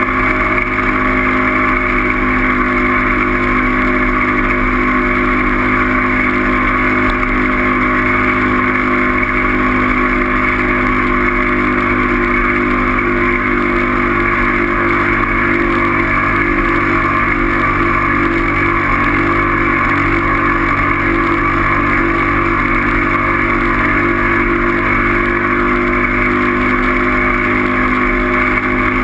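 A steady motor drone held at one unchanging pitch, with an even hiss over it.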